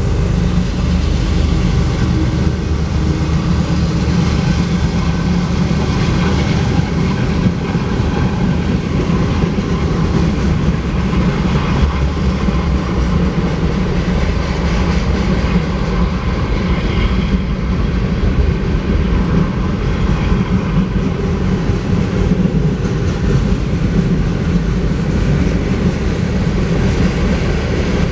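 Freight train running past close by at speed. The trailing GE diesel locomotives go by first, then a long string of freight cars, with a steady, heavy rumble of wheels on the rails and a clickety-clack.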